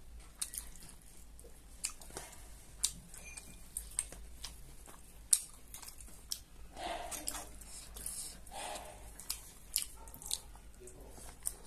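Close-miked chewing and mouth noises of a person eating mimi singju, a salad of dry instant noodles and shredded cabbage, with rice and boiled spinach by hand. Irregular sharp wet clicks and smacks run throughout, the loudest about five seconds in.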